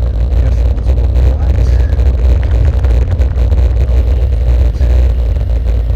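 Loud low rumble with constant rattling and knocking from a bicycle ridden over a rough road. The uploader puts the noise down to vibrating armrests or the DJI camera mount.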